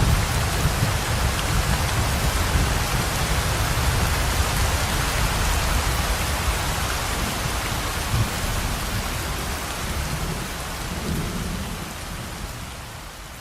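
Heavy rain pouring steadily, with a deep low rumble underneath, slowly fading out near the end.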